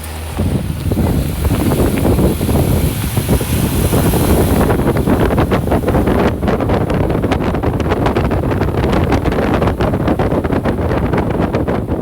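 Off-road vehicle driving along a dirt trail: steady road and wind noise with wind buffeting the microphone. From about five seconds in there are rapid knocks and rattles as it goes over the rough ground.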